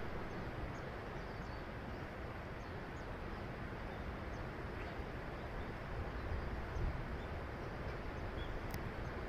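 Steady outdoor background noise with faint, scattered high bird chirps, before the train is heard.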